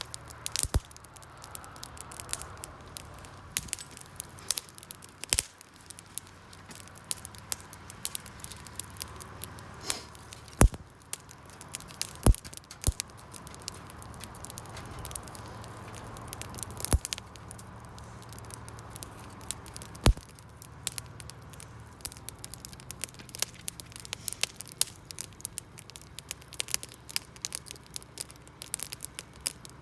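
Wood fire crackling: irregular sharp pops over a soft hiss, with a few louder cracks scattered through.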